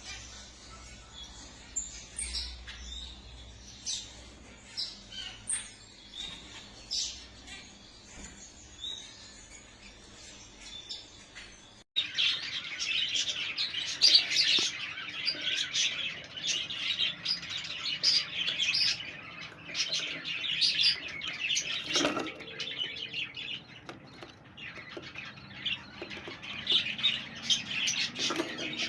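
Many caged small pet birds chirping and tweeting. The chirps are sparse at first; after an abrupt cut about twelve seconds in, they become a dense, continuous chorus with a few sharper, louder calls.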